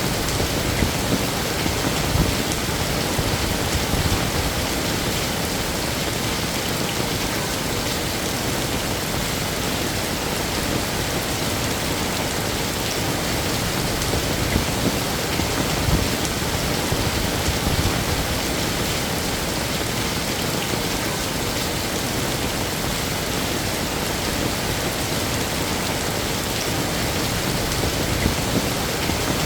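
Heavy rain falling steadily, with scattered louder drops and splashes standing out now and then.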